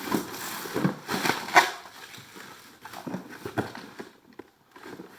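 Irregular knocks and rustling as items and their packaging are handled and taken out of a delivery box.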